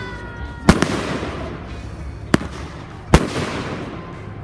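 Aerial fireworks bursting: a sharp bang about two-thirds of a second in with a quick second one after it, another a little after two seconds, and a heavy one about three seconds in. Each bang trails off in crackle and rumble.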